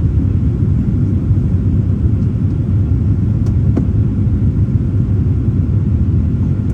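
Steady low rumble of a Boeing 787-9 airliner's engines and airflow, heard from inside the cabin.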